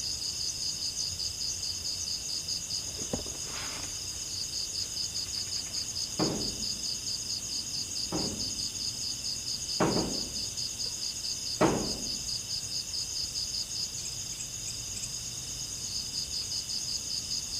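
Crickets trilling in a steady, fast pulse. About midway, five short falling sounds come roughly every two seconds over the chorus.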